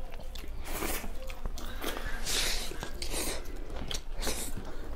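Two people chewing and biting mouthfuls of rice and pork curry eaten by hand, in irregular bursts of mouth noise.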